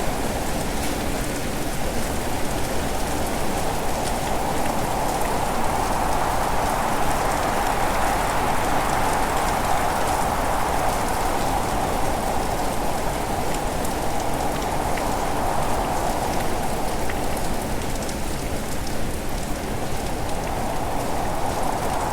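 Steady heavy rain falling, with fine scattered drop ticks over a dense rush; the rush swells a little around the middle and again near the end.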